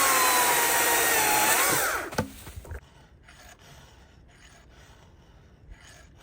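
Battery electric chainsaw run briefly at full speed, a steady high motor whine that lifts and drops in pitch as the trigger is released, cutting off about two seconds in. A click follows, then faint, evenly spaced strokes about two a second.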